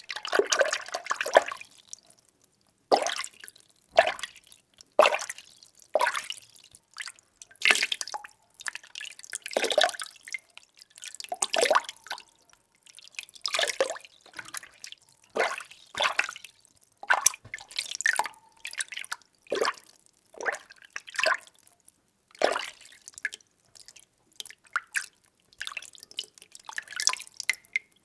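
Water being stirred, with short sloshing, splashing strokes roughly once a second and brief pauses between them.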